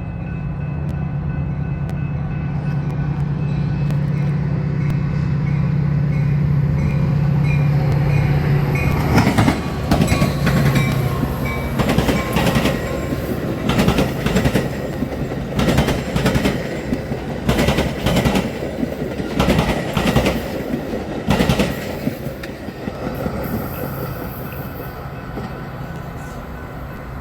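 A diesel-locomotive train passing over a railroad diamond crossing: a steady engine hum builds, then from about nine seconds in the wheels bang across the crossing in a run of loud clacks every second or two, easing off near the end.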